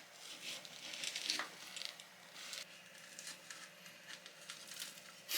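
Faint crinkling, tearing and scattered small clicks of a fire-roasted potato being broken open and handled, ending in a sharper clack.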